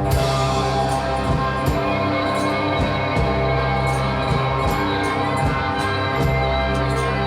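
Live rock band playing an instrumental passage: droning held chords over a steady, slow drum beat.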